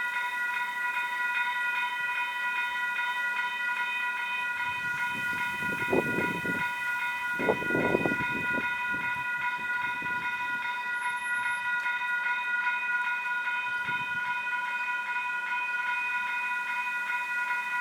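Railroad grade-crossing bell ringing steadily and rapidly as a Union Pacific freight train passes. The train's rumble swells twice, about six and eight seconds in, with a smaller swell near fourteen seconds.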